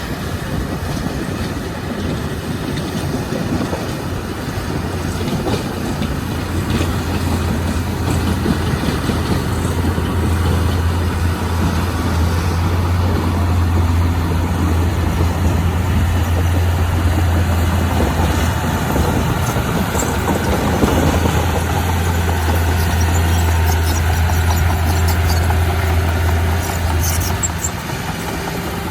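Heavy diesel earthmoving machine's engine running steadily with a deep, constant drone. It grows louder several seconds in and eases back near the end.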